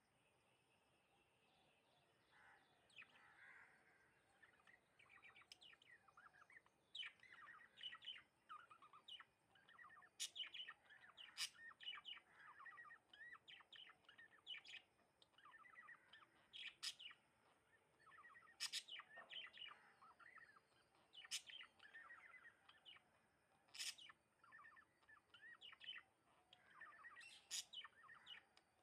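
House sparrows chirping faintly and repeatedly in short, irregular bursts of chirps and trills.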